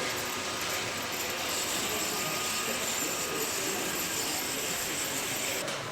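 Steady ambience of a model railway hall: an even noisy hum of running HO-scale trains and layout machinery, with faint murmuring of visitors' voices underneath. It drops slightly in level just before the end.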